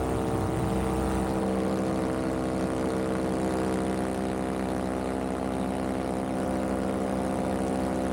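Vittorazzi Moster 185 two-stroke paramotor engine and propeller running in flight at a steady, unchanging pitch, with wind noise over the microphone.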